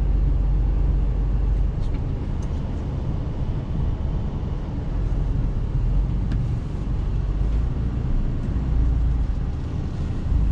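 Heavy truck on the move, heard from inside the cab: a steady low rumble of engine and road noise.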